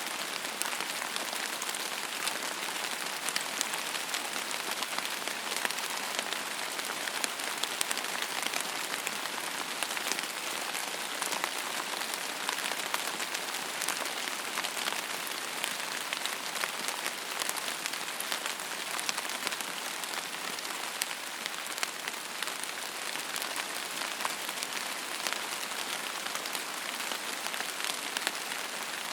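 Steady rain falling on a surface: an even hiss full of fine, quick drop ticks, without thunder.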